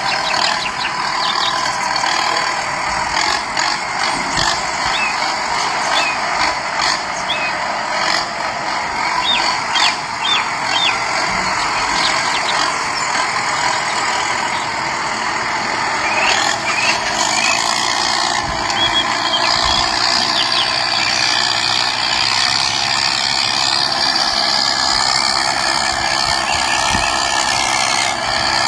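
Small electric motor running steadily through toy gears, a whirring, rattling mechanical noise with scattered clicks; a higher whine joins about two-thirds of the way through.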